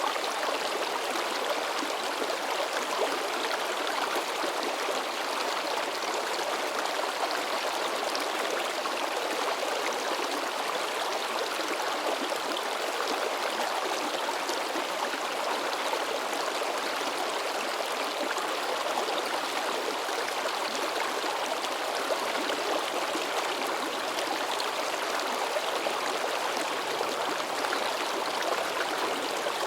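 Forest river babbling and splashing: a steady, even rush of flowing water.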